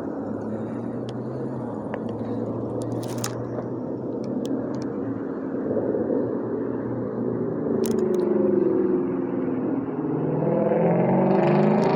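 A motor vehicle engine running, its pitch climbing and growing louder over the last few seconds, with a few faint clicks.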